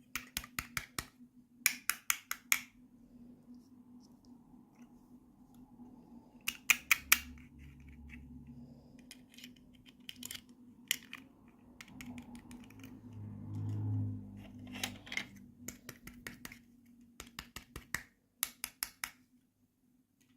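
Plastic toy packaging being handled and opened: about nine short clusters of quick, crackly clicks, with a low rubbing sound near the middle and a faint steady hum underneath.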